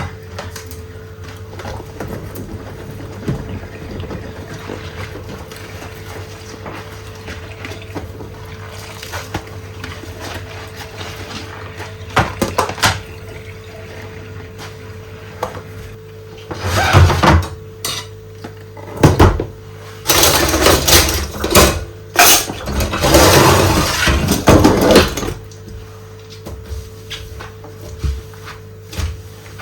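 Dishes being washed by hand in rubber gloves: quiet rubbing and small clinks of dishes and cutlery, then a run of loud clattering and splashing in bursts past the middle, which stops near the end.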